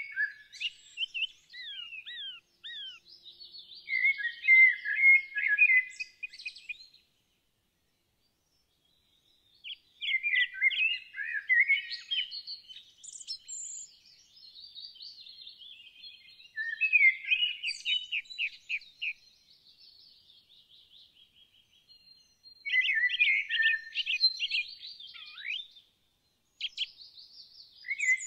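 Songbirds singing: phrases of quick, downward-sweeping chirps and rapid trills a few seconds long, broken by a gap of about two seconds where the sound stops dead.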